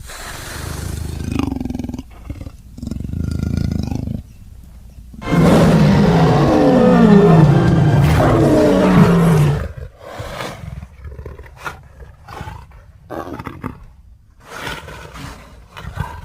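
Big-cat vocal sound effect built from lion, tiger and leopard recordings: low growls for the first few seconds, then one long, loud roar about five seconds in, falling in pitch over some four seconds, followed by a string of short, separate calls.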